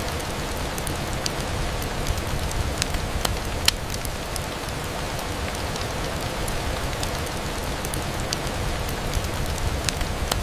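Steady rain on a window: an even hiss over a low rumble, with scattered sharp ticks throughout, the sharpest a little under four seconds in.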